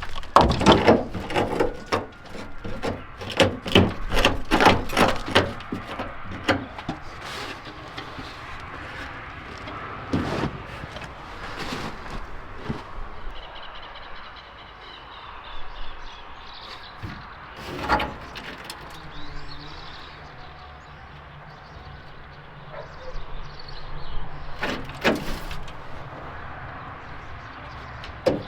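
Knocks and clatter from hands-on teardown work on an old pickup truck: a quick run of sharp knocks in the first few seconds, then single knocks every few seconds.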